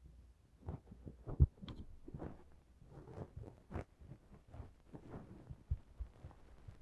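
Close-up handling sounds: soft irregular taps, scrapes and rustles, with one sharper low thump about one and a half seconds in.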